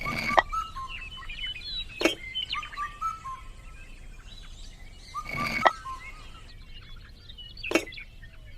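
Small birds chirping and twittering in quick short notes, broken by a few sharp knocks: one at the start, one about two seconds in, a double knock about five and a half seconds in, and one near the end.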